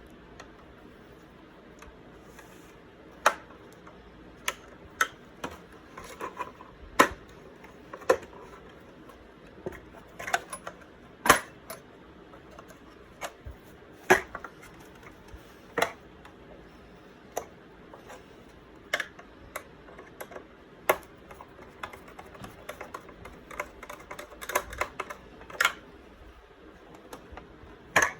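Irregular sharp clicks and taps of a hand Phillips screwdriver and plastic ice-caddy parts as screws are driven back into the caddy, some coming in quick little clusters.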